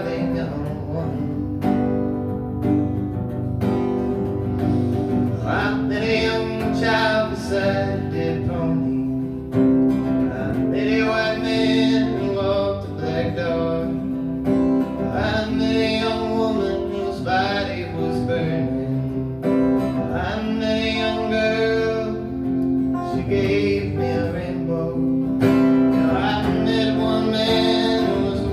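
Live acoustic guitar strummed steadily under a voice singing the song's verse in phrases.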